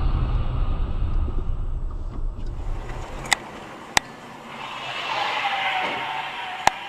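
Low rumble of a car driving, engine and road noise, dying away about two and a half seconds in. Then come three sharp clicks and a brief swell of hiss, like another vehicle going by.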